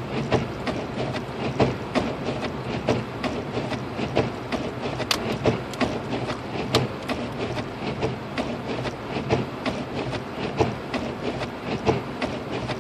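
Inside a 2006 Lexus IS250 AWD driving slowly on a snow-covered road: a steady low hum of engine and road noise under a constant rush of tyres through snow and slush, with frequent irregular ticks and clicks.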